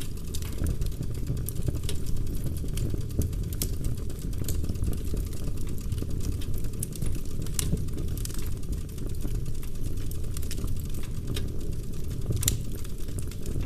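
Logs burning in a fireplace: a steady low rush of flames with frequent sharp crackles and pops of the wood, one pop louder than the rest near the end.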